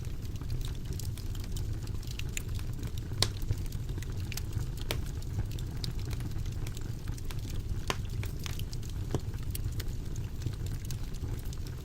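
Wood fire burning in a fireplace: a steady low rumble of flames with scattered sharp crackles and pops from the burning logs, one louder pop about three seconds in.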